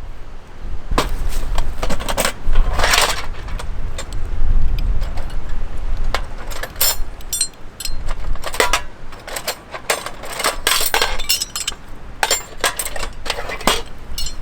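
Small hard objects clinking and clattering in irregular clusters as gear is handled, over a low rumble of wind on the microphone.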